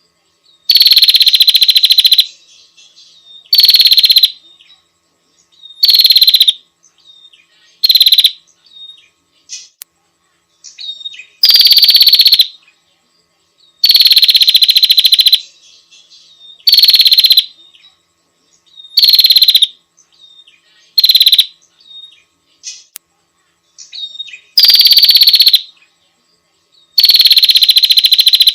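Female prinia (prenjak) giving loud, fast buzzing trills, each lasting about half a second to a second and a half and repeated roughly every two seconds, with faint short chips in between and a longer pause near the middle.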